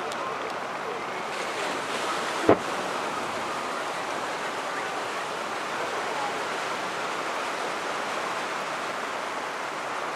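A single sharp firework bang about two and a half seconds in, over a steady rushing background noise.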